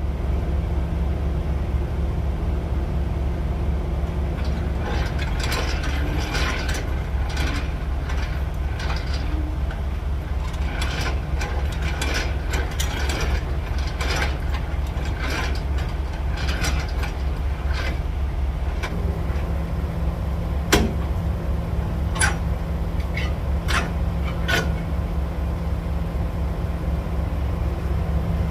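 Semi truck's engine running with a steady low drone, with frequent light clicks and rattles.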